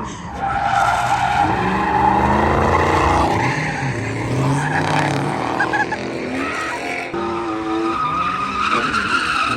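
Drift car engine revving up and down repeatedly over a sustained tire squeal as the car slides.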